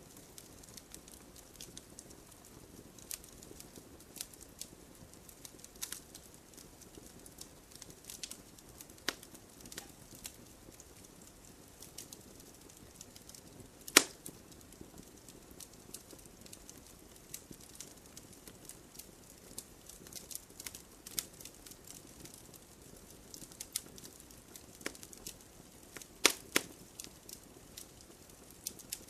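Wood campfire crackling: scattered sharp pops and snaps over a faint steady background, the loudest pop about halfway through.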